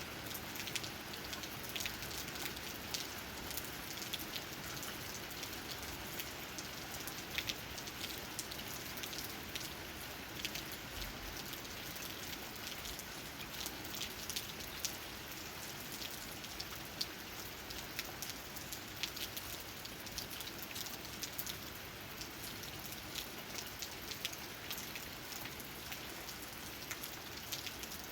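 Steady rain falling, with many individual drops pattering sharply on leaves close by over a continuous hiss.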